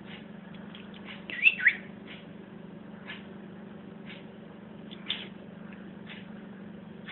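Pet canary giving a few short chirps: two close together about one and a half seconds in and another about five seconds in, over a steady low hum.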